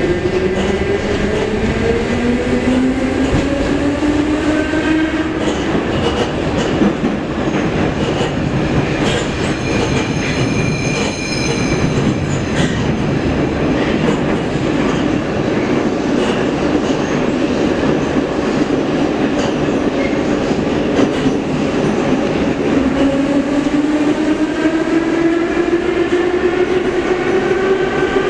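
Metro train running between stations: steady rumble of wheels on the rails, with a traction-motor whine that rises in pitch as the train picks up speed over the first few seconds and again near the end. A high, thin wheel squeal comes in briefly around the middle.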